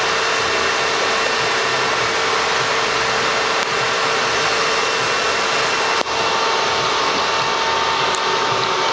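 Electric radiator cooling fan running steadily with an even whoosh and a constant hum, switched on because the engine has reached operating temperature. There is a single sharp click about six seconds in.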